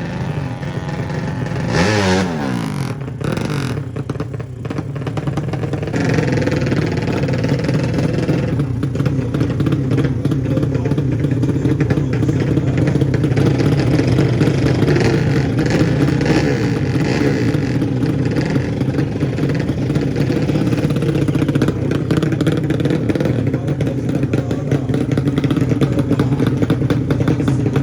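Drag-racing underbone motorcycle engines (200cc class). One sweeps quickly in pitch about two seconds in, then from about six seconds an engine runs steadily at high revs with a rapid, rattly pulse.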